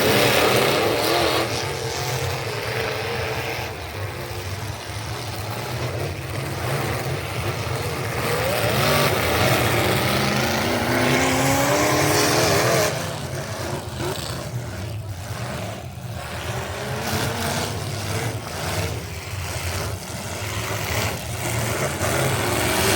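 Truck engines running and revving, with one engine's pitch climbing steadily from about 8 to 13 seconds in before it drops back.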